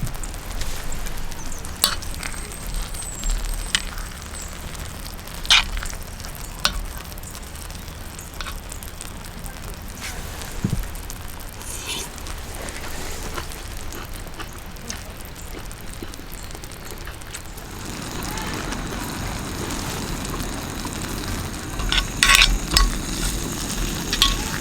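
Food sizzling in a pan over a camp stove, with occasional sharp clinks of a utensil against the pan; the sizzle gets louder about three quarters of the way through.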